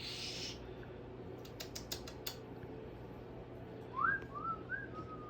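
A cockatoo whistling softly near the end: a few short notes that rise and dip. A handful of light, sharp clicks come a couple of seconds earlier.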